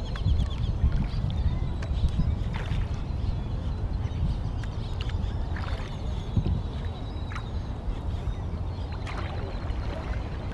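Sit-inside kayak out on the water: steady low rumble of water and wind noise, with a few light knocks scattered through.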